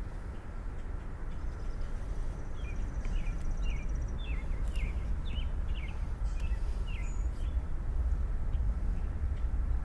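Steady low outdoor rumble. Over it, a songbird sings a run of short, quick, falling chirps from about two and a half to seven seconds in.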